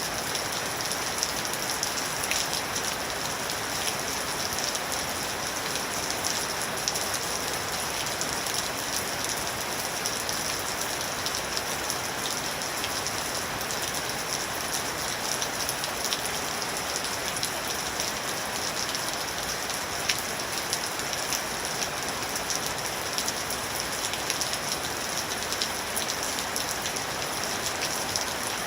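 Steady rain falling, a continuous hiss dotted with many small drop impacts on a surface.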